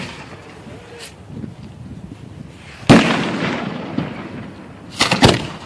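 Aerial fireworks shells from a hand-fired mortar show: a loud boom about three seconds in, its echo dying away over about two seconds, after a smaller pop about a second in. Two more sharp bangs come close together near the end.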